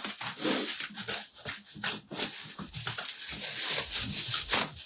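Cardboard box and its packing tape being pulled and torn at by hand: an irregular run of rustling, scraping and tearing.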